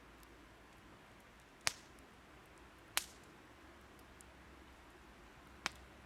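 Burning wood popping: three sharp cracks, about a second and a half in, three seconds in and near the end, with a few faint ticks, over a quiet steady hiss.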